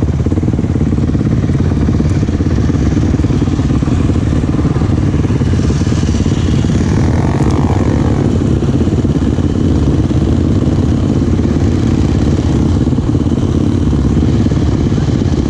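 Enduro dirt bike engine running steadily close to the microphone, a dense, even engine note with no pauses.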